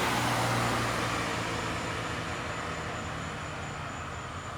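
Norfolk Southern EMD SD40-2 diesel locomotive's 16-cylinder two-stroke engine running with a steady low hum, fading gradually as the locomotive moves away.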